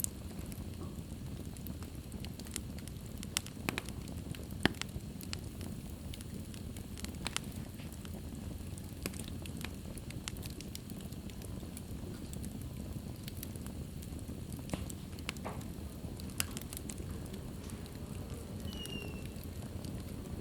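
Wood fire burning in a fireplace: a steady low rumble of the flames with frequent crackles and sharp pops, a few louder pops standing out.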